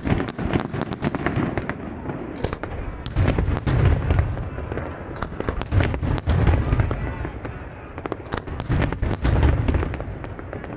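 Aerial fireworks display: a dense run of sharp crackling reports, with heavy low booms from shell bursts about every three seconds.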